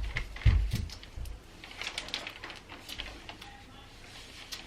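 Close-miked crab leg shells being cracked and picked apart by hand: a quick run of sharp clicks and cracks, with a couple of low thumps in the first second.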